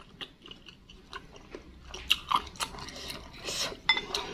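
Close-up chewing and wet mouth sounds of someone eating meatballs in soup, with light clicks of a wooden spoon and fork against a ceramic bowl, sparse at first and busier in the second half.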